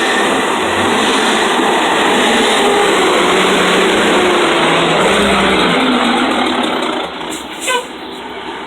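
Truck engine running close by, loud and steady, then dropping away about seven seconds in.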